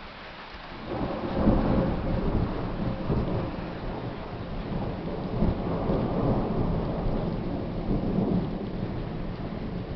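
Thunder rumbling: a loud low roll starts about a second in, peaks soon after and keeps rolling on, over steady rain.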